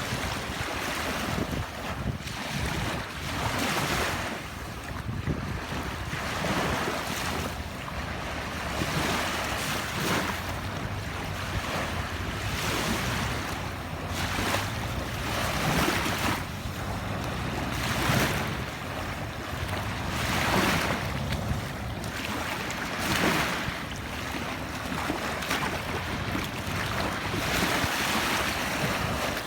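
Small waves washing onto a beach, each wash swelling and easing every two to three seconds, with wind on the microphone.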